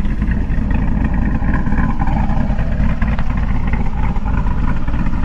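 Supercharged 408 cubic-inch LS V8 with a Summit Racing Pro LS 8722R1 cam idling steadily through long-tube headers, an X-pipe and a Corsa sport axle-back exhaust, with no revs.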